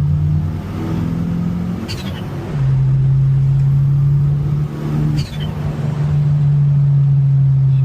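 Turbocharged 1995 Mitsubishi Eclipse GSX (4G63 inline-four with a big 16G turbo) accelerating hard. The engine note dips twice, about 2 and 5 seconds in, each time with a short falling high-pitched sound, then comes back louder.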